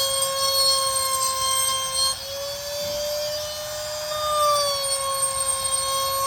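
High-speed electric rotary carving tool whining steadily as it cuts into wood, its pitch rising slightly for a couple of seconds midway and then settling back.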